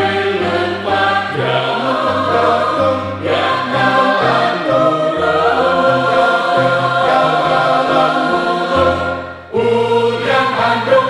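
A choir singing in parts, the voices holding and moving between sustained chords. Just after nine seconds in, the sound briefly drops away before the choir comes back in.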